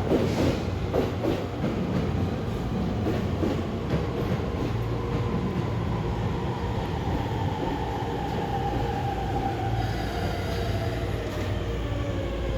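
Electric-hauled freight train passing at speed, its wheels clicking over rail joints with a steady rumble. A thin whine falls slowly in pitch through the second half.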